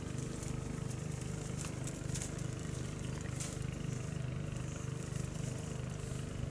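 Small engine of a water pump running steadily at constant speed, with a fast even throb and a few faint clicks over it.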